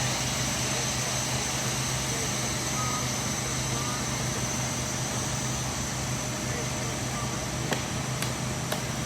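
Steady drone of a running engine with a constant high whine, a few faint clicks near the end.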